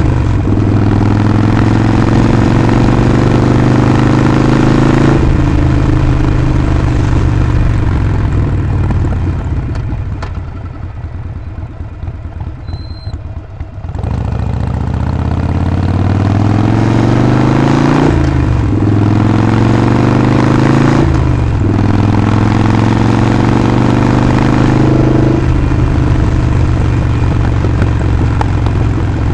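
Harley-Davidson Sportster Forty-Eight's 1200 cc air-cooled V-twin and exhaust under way: steady cruising, then the throttle closes and the engine drops to low revs about ten seconds in. From about fourteen seconds it accelerates with rising pitch through two quick gear changes and settles back to a steady cruise.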